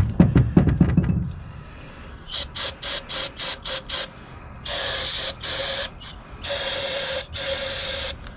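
A pneumatic air tool, likely an air ratchet, run in bursts: first a string of quick short blips, then two longer runs of a second or more each, hissing air over a steady motor whine. A low rough noise comes just before, in the first second.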